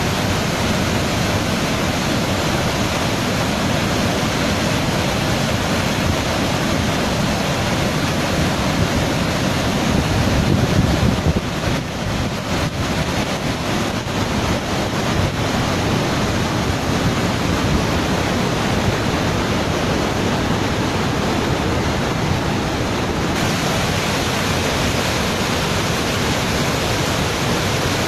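Large waterfall's steady rushing roar of falling water, swelling briefly about ten seconds in.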